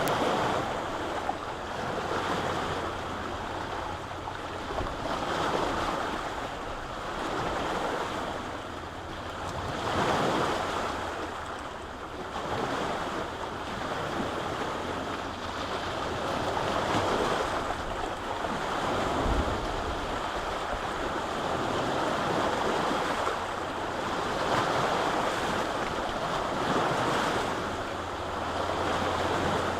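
Lake waves washing onto the shore, the noise swelling and ebbing every few seconds, with a steady low wind rumble on the microphone.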